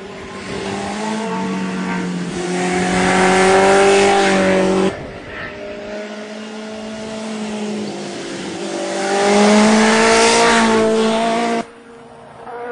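Vintage racing motorcycle engines revving hard as they accelerate up the hill climb, two passes, each rising in pitch and loudness, then cutting off abruptly.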